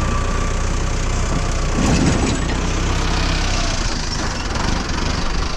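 Mahindra Arjun Novo tractor's diesel engine running steadily, with a brief louder surge about two seconds in.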